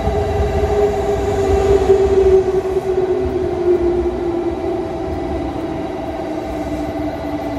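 An electric train running, with a steady whine and a second tone that slowly falls in pitch, over a low rumble that eases after a few seconds.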